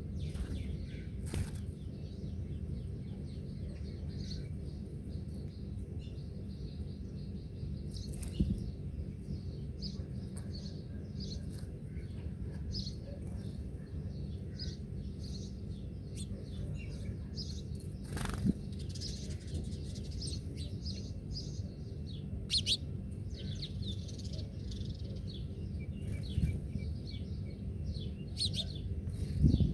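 Small birds chirping and twittering in quick, short notes throughout, over a steady low rumble, with a few sharp clicks scattered through.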